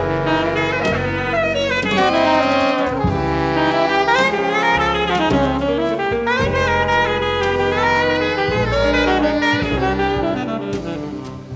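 A band playing jazz-styled music, with a melody line swooping up and down over sustained bass notes; the music grows quieter near the end.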